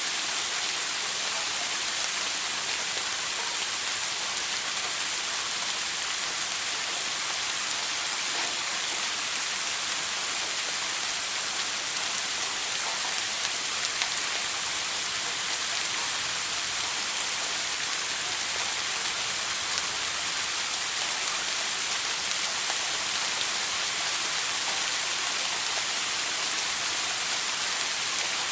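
Shower water spraying and pattering steadily, an even hiss with no breaks.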